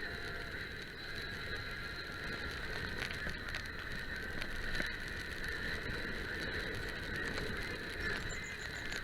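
Mountain bike being ridden over a trail: a steady mechanical rattle and clicking of the bike's drivetrain and frame, over a constant high-pitched drone.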